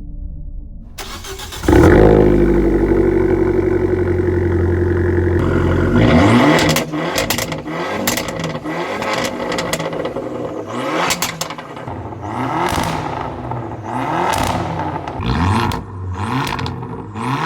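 Abarth 500/595's 1.4 turbo four-cylinder, fitted with an aftermarket exhaust, started up about two seconds in and idling high while the revs settle, then blipped through a run of about eight short revs.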